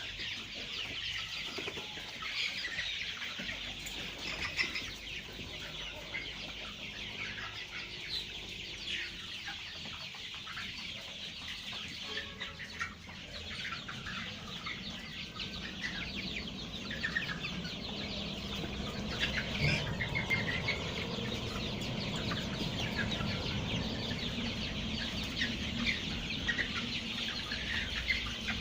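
A flock of chickens clucking, with many short calls overlapping continuously. A low hum joins in and grows stronger about halfway through.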